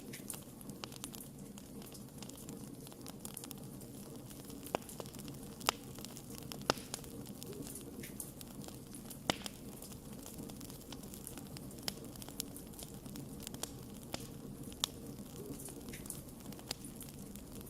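Wood fire burning: a steady low rushing sound with scattered sharp crackles and pops. A few louder snaps come between about five and ten seconds in.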